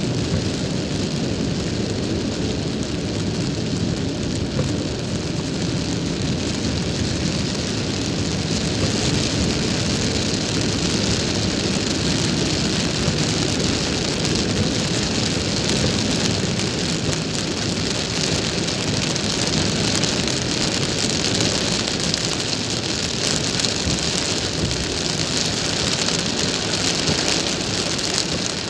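Rain falling on a moving car, a steady hiss of rain over the car's low road and engine rumble. The rain hiss grows stronger after the first several seconds.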